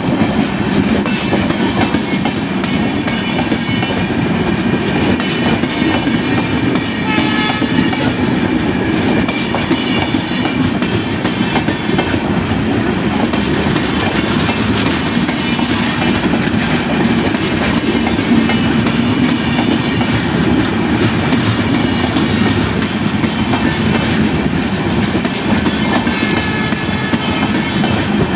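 Passenger express train rolling past, its steel wheels clacking over the rail joints in a steady, loud run. A brief high tone comes in about eight seconds in.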